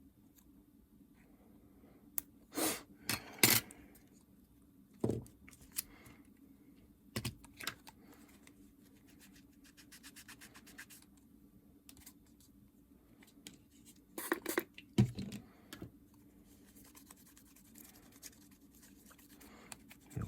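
Scattered clicks, taps and scrapes of small parts of a Nintendo DS Lite being handled and fitted on a workbench, over a steady low hum.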